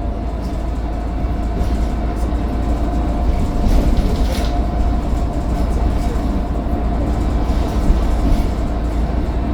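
Mercedes-Benz Citaro bus running on the move: a steady low rumble with a steady high whine from the turbocharger, and a few light rattles.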